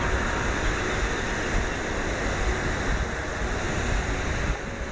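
Steady rush of falling water, with uneven wind rumble on the microphone.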